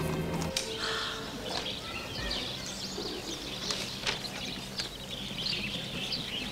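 Small birds chirping and twittering over steady outdoor background noise; a music chord ends about half a second in.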